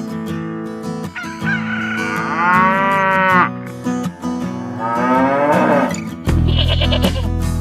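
Cow mooing: two long, drawn-out moos over steady background music.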